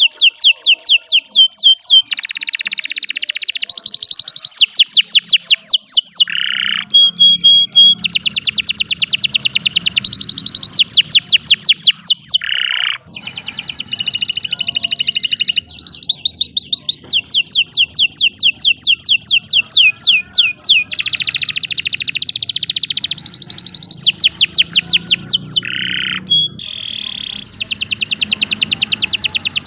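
Domestic canary singing vigorously in long, continuous song: phrase after phrase of rapidly repeated high notes and rolling trills, with only brief breaks between phrases.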